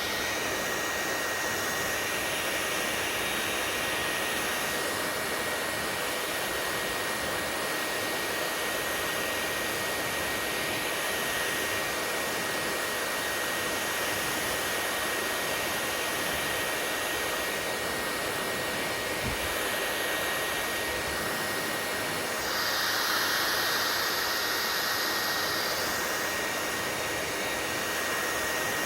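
Hair dryer running steadily: an even rushing blow with a thin, steady high whine. It grows briefly louder and brighter about two-thirds of the way through.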